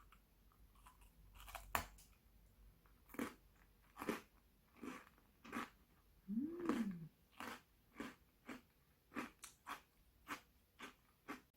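Close-up crunching of a crisp baked tart shell being bitten and chewed: a sharp first bite, then a run of short crunches about two a second.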